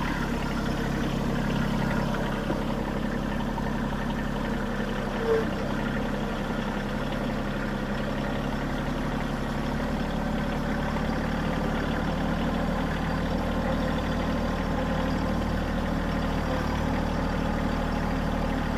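Bad Boy 3026H compact tractor's diesel engine running steadily while hauling a heavy load of logs in low range, with a single brief chirp about five seconds in.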